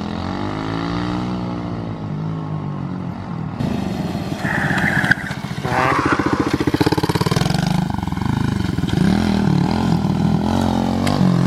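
Chinese 125cc pit bike engine being ridden, revving up and easing off again and again so its pitch rises and falls. The sound changes abruptly a few seconds in, and the revs climb hard around the middle.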